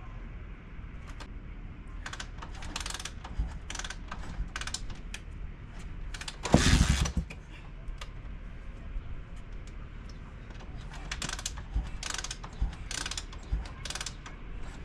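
Hand tools working on metal motorcycle parts: scattered clicks, taps and ratcheting, with one louder clattering rattle lasting under a second about six and a half seconds in.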